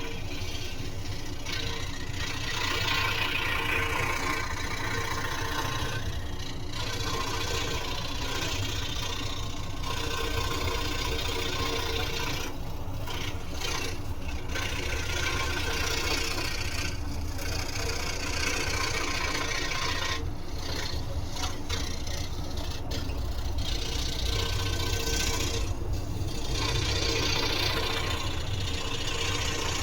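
Scroll saw running, its reciprocating blade cutting wood: a steady motor hum under a rasping cutting noise that comes and goes as the piece is fed through.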